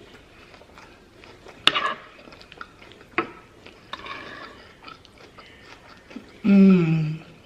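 Close-miked chewing of food with wet mouth clicks and a sharp crunch about a second and a half in. Near the end, a short loud voiced hum that falls in pitch.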